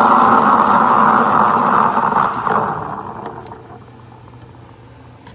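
SUMSATY 20-bar espresso machine's steam wand steaming milk: a loud, steady hissing noise that fades out between about two and a half and four seconds in.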